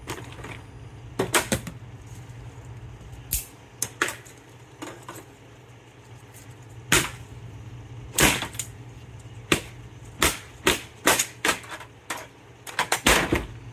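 Irregular sharp clicks, snaps and knocks of hands and tools on the plastic and metal parts of a Sony 55-inch LED TV being taken apart, over a steady low hum.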